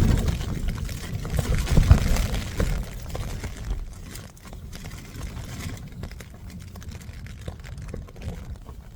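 Storm wind gusting against the tent, loud at the start and easing off over the first three seconds, leaving a lower, steady wind rumble with light ticks and rustles.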